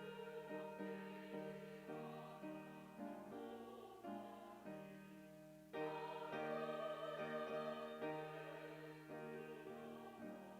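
Church choir singing a hymn anthem with piano accompaniment; the choir swells louder a little past the middle.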